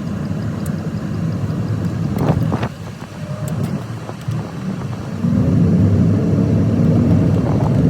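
Road and engine noise of a moving car heard from inside the cabin, a steady low rumble. It drops for a second or two about three seconds in, then rises and is louder from about five seconds in.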